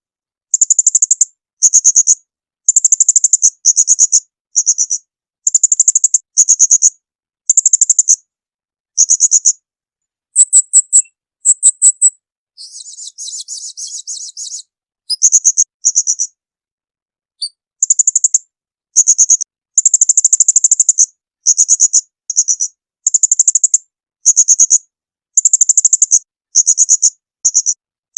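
A small songbird's shrill, high-pitched calls in short bursts, roughly one a second, cut together with dead silence between them as in a bird-tutor (masteran) recording. About halfway through, a softer buzzy trill lasts a couple of seconds before the sharp calls resume.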